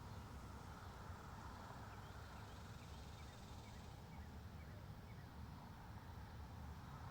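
Wind through trees and on the microphone: a steady low rumble under a soft hiss, with a series of faint, short, high chirps in the middle.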